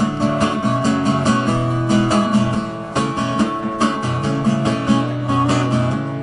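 Acoustic guitar strummed in a steady rhythm: an instrumental passage of a folk song, with no singing.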